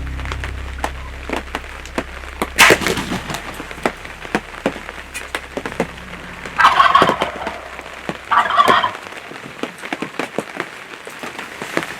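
Wild turkey gobbling twice, about seven and eight and a half seconds in, amid scattered light ticks and a sharp knock a few seconds in.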